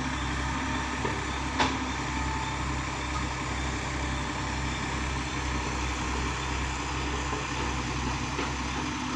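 Heavy diesel engine running steadily, with one sharp knock about a second and a half in.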